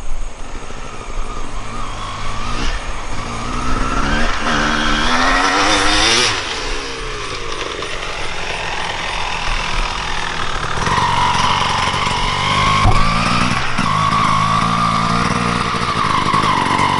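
Dirt bike with a 2001 Honda CR250 two-stroke engine revving up through the gears and passing close by about six seconds in, the pitch dropping away, then running hard at steady high revs.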